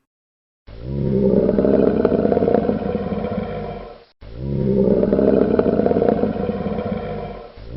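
Lion roaring: a long drawn-out roar of about three seconds, played twice back to back, the second starting just as the first fades.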